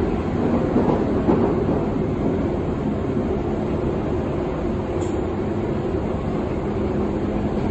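Berlin U-Bahn train running between stations, heard from inside the car: a steady noise of wheels on rails and running gear, with one faint click about five seconds in.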